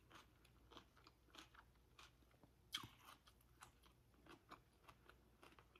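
A person chewing food close to the microphone: faint, irregular mouth clicks and crunches, with one louder click nearly three seconds in.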